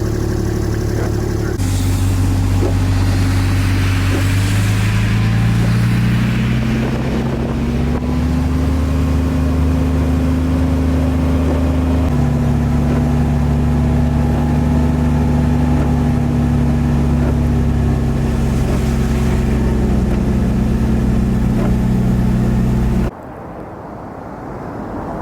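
A motor vehicle's engine running under load, its pitch climbing over several seconds and then stepping down about halfway through as it shifts gear, over a steady hiss. Near the end it cuts off abruptly to a much quieter rushing noise.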